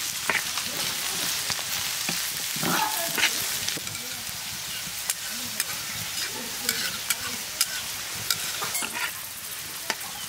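Diced onion and bell peppers sizzling in hot oil in a pan, stirred with a metal spatula that scrapes and clicks against the pan now and then.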